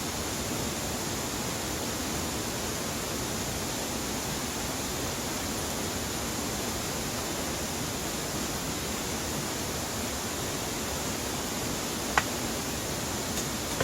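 Steady rushing of a valley stream, an even wash of water noise, with one brief click near the end.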